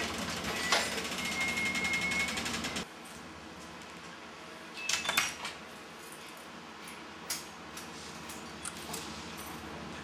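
Passenger carriages of a train rolling slowly past, with rapid, even clicking and a brief high-pitched squeal. About three seconds in the sound drops suddenly to quieter station ambience with a few scattered knocks and clatters.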